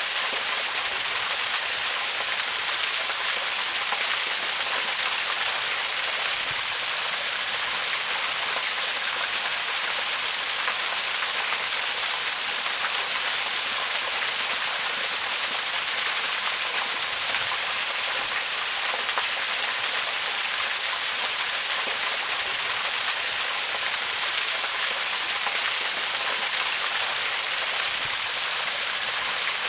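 Waterfall: a steady, unbroken rush of falling water, mostly high hiss with little low rumble.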